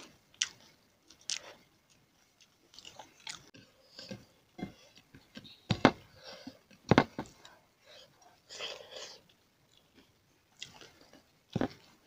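Eating by hand: chewing of rice and vegetables, with wet mouth sounds and fingers mixing rice on the plates. A few sharp clicks stand out, the loudest about six, seven and eleven and a half seconds in.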